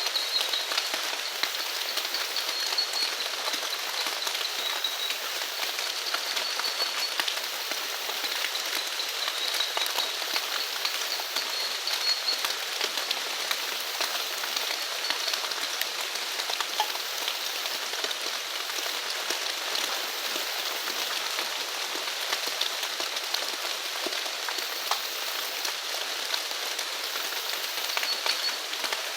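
Steady rain falling on surfaces, a dense patter of drops without a break. A faint high-pitched animal call comes and goes through the first half and again near the end.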